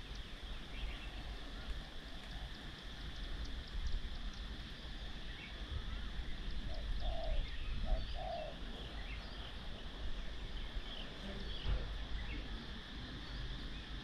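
Wild birds calling: scattered short chirps throughout, and two low, paired calls about seven and eight seconds in, over a steady high drone and a low rumble.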